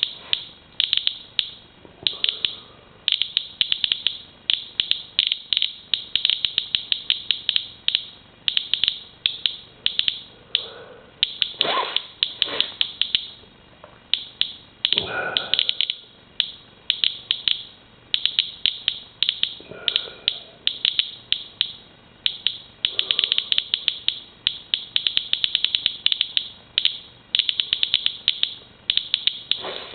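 Medcom Inspector Geiger counter clicking a sharp, high chirp for each count, several a second at irregular intervals that bunch up and thin out, as it counts a rainwater sample running at around 300 counts per minute, well above background.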